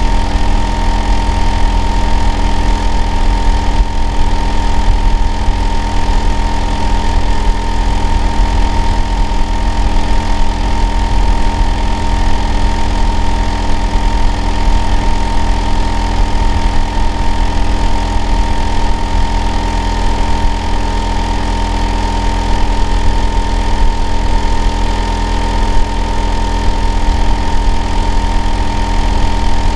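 Hitachi air-conditioner outdoor unit running steadily: a loud low hum with a steady high whine on top, a noise the uploader calls abnormal.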